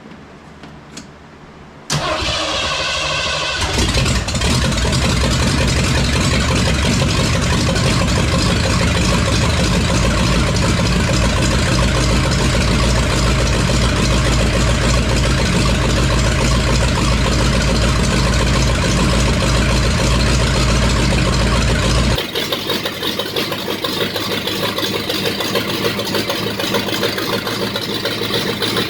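A 1982 Ford F-100's newly swapped-in 5.8-litre V8 cranking briefly about two seconds in and catching, then running at a steady fast idle. Near the end it drops to a quieter idle. The owner thinks the ignition timing still needs more advance.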